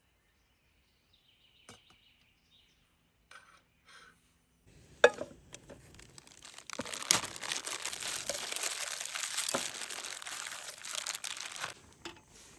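Crinkling and rustling of something being handled, loud and dense for about five seconds in the second half, with a sharp click just before it starts. Earlier there are only a few faint clicks and a brief chirp.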